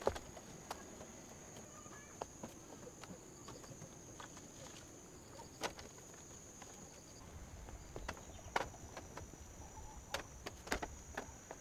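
An insect, likely a cricket or cicada, keeps up a steady, high-pitched drone. Scattered sharp clicks and knocks sound over it, a few louder ones about halfway through and near the end.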